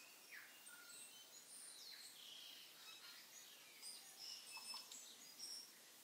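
Faint chirping of small birds: many short, high calls and glides scattered throughout, a little busier in the second half.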